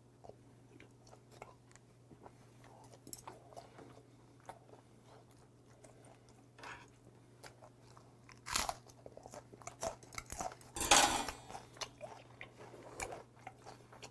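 Close-miked chewing of half-dried saury (gwamegi) and raw greens: many small wet mouth clicks, with two louder crunches past the middle, the second about two seconds after the first. A faint steady low hum lies underneath.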